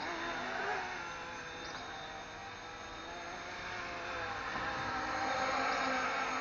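RC ERA C189 MD500 model helicopter in flight: the whine and buzz of its rotor and motor, dipping a little and then swelling again as it moves about.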